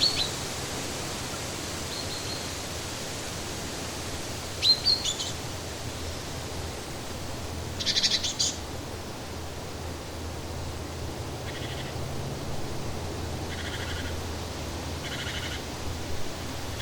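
Birds chirping and calling at intervals over a steady rushing background noise: a few quick sweeping chirps in the first half, a brief cluster of calls about eight seconds in, then short pulsed calls repeating every couple of seconds.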